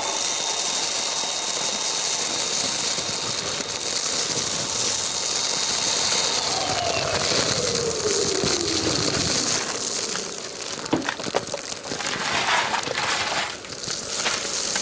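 A Kärcher multi-purpose wet-and-dry vacuum with a bulk waste kit runs with a steady motor whine and a rush of air. About six seconds in, a tone slides down in pitch. From about ten seconds, debris clatters and crackles as it is sucked up through the wide hose.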